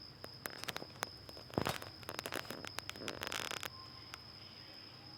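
Irregular sharp clicks and short scratchy rustles, with a longer scraping stretch about halfway through, over a steady high-pitched chirring of crickets.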